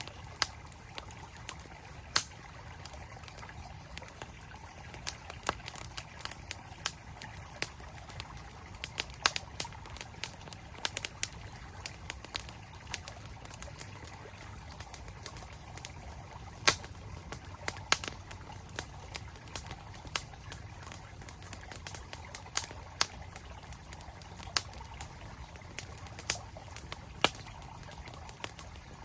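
Campfire crackling with irregular sharp pops, now sparse, now several in quick succession, over the steady rush of a flowing mountain stream.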